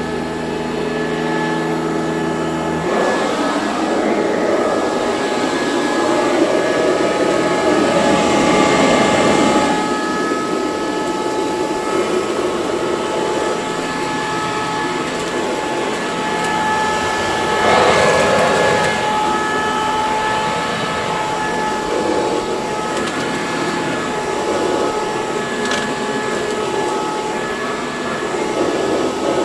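Eureka C2094 commercial vacuum cleaner running steadily, its motor whine over a rush of air, swelling louder briefly twice, around nine and eighteen seconds in.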